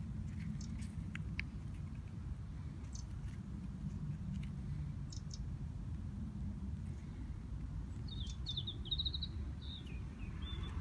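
A bird calls about two-thirds of the way in, a quick run of high chirping notes lasting about a second and a half. Under it runs a steady low rumble, with a few faint clicks scattered through.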